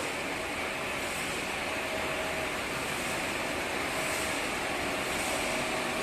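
Steady machinery noise from a running production line, with a faint whine that comes and goes.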